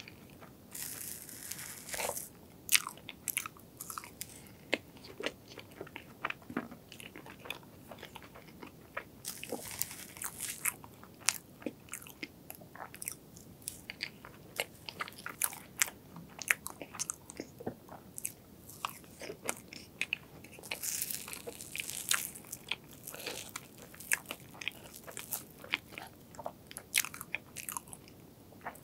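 Close-miked eating of strawberry crepe cake: soft, wet chewing with many small mouth clicks and smacks, and a few longer moist, hissy stretches of chewing.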